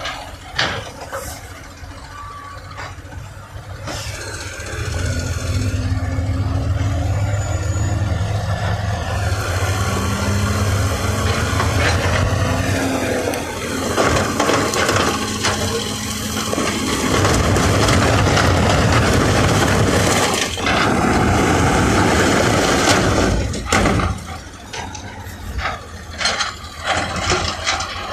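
Heavy construction machinery diesel engine working, growing louder about four seconds in, with scraping and knocks, then easing off near the end.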